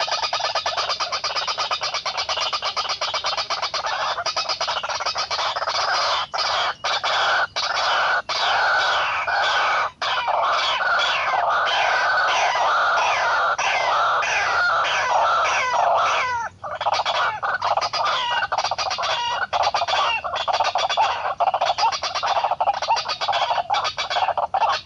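White-breasted waterhens calling: a loud, continuous run of rapidly repeated harsh, clucking notes, broken by a few short gaps.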